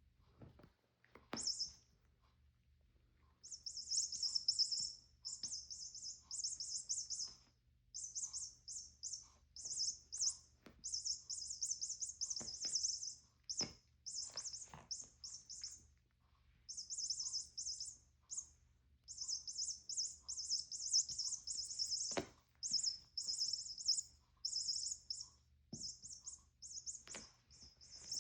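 Small bird chirping in quick high-pitched twittering runs, repeated over and over with short pauses, with a few soft taps in between.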